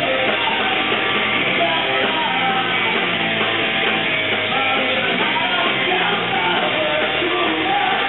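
Live rock band playing, with a singer's voice over loud electric guitars and drums, heard through a low-quality recording with the highs cut off.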